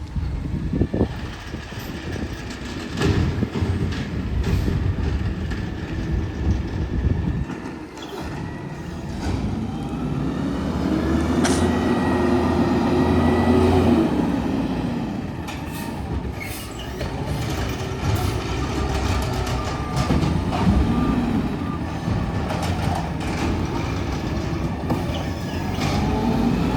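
Garbage truck's diesel engine running and revving up and down as it works the pickup, with intermittent metallic clanks and knocks.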